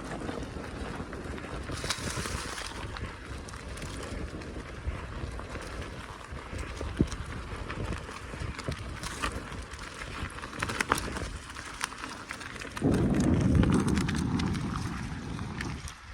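Bicycle rolling along a forest track: steady tyre noise with scattered rattles and clicks from the bike. About 13 seconds in, a louder low rumble rises and fades away over the next few seconds.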